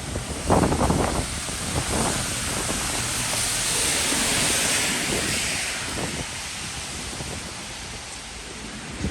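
Rainy street ambience: a broad hiss of rain and wet surfaces that swells for a few seconds around the middle and then fades, with a few short knocks or rustles near the start.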